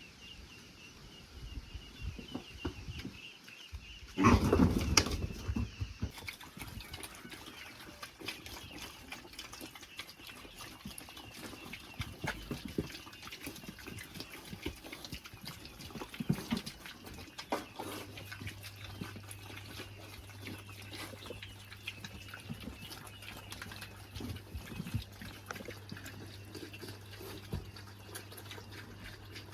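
Pigs grunting and feeding, with a loud burst from them about four seconds in; a low steady hum joins about eighteen seconds in.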